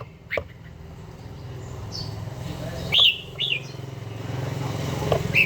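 Red-whiskered bulbul giving short, sharp call notes, about five spaced across a few seconds, the loudest about three seconds in. A steady low hum runs underneath.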